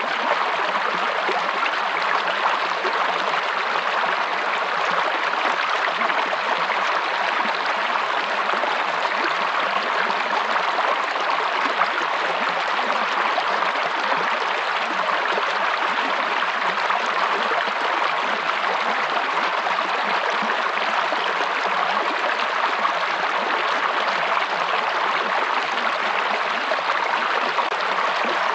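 Running water of a stream or small waterfall, a steady, even rushing with no breaks.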